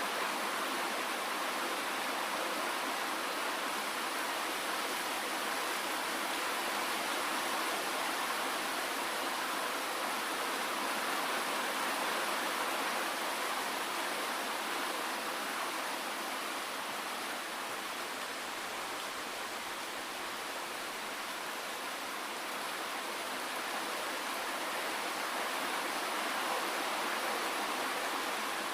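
Steady rain falling, an even hiss with no single drops standing out and almost no low rumble.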